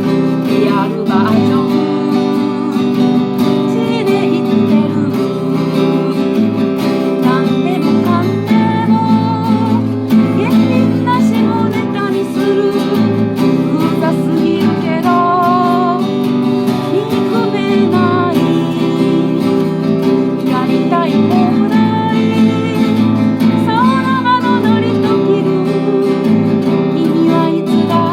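Music: a strummed acoustic guitar with a wavering melody line above it.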